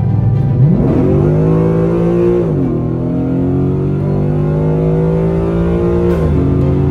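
Ford Mustang GT's 5.0 Coyote V8 at full throttle, heard from inside the cabin. The revs climb hard, drop at an upshift about two and a half seconds in, climb again, and drop at a second upshift near the end.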